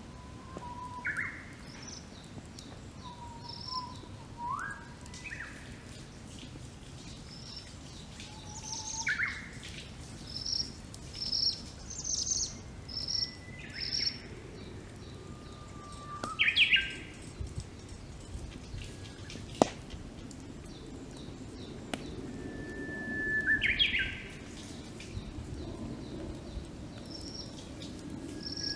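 Wild songbirds singing: several calls that hold a steady note and then break into a quick upward flourish, over many short high chirps. A low background hiss runs underneath, with one sharp crack from the campfire about two-thirds of the way through.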